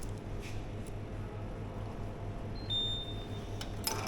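A short electronic beep about three seconds in: a brief higher note stepping down to a longer, steady lower one. It sounds over a steady low electrical hum, with a few light clicks near the end.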